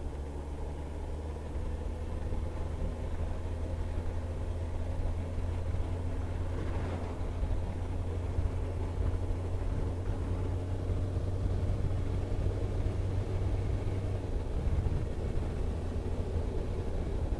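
Car driving, heard from inside the cabin: a steady low drone of engine and road noise, with a brief swell about seven seconds in.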